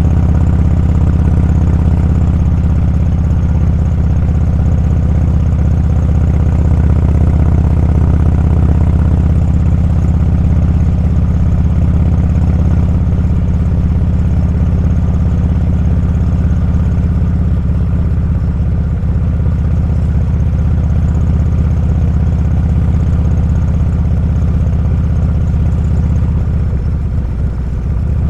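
Motorcycle engine running steadily under way, picked up by the on-bike camera's microphone; the engine eases off briefly near the end.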